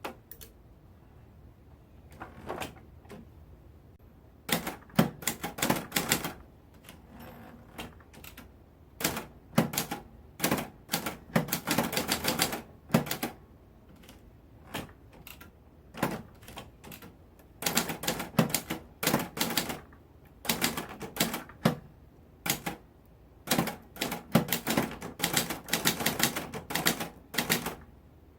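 Manual typewriter being typed on: quick runs of sharp key strikes with short pauses between words and phrases.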